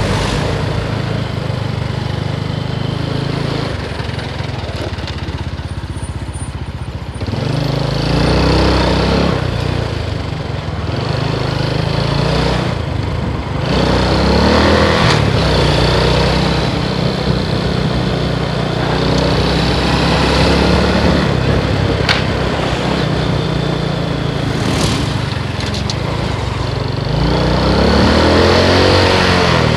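Motorcycle engine running on the road, its pitch rising and falling with the throttle and gear changes; it drops back and runs quieter for a few seconds, then picks up again about seven seconds in, with further rises in revs near the middle and near the end.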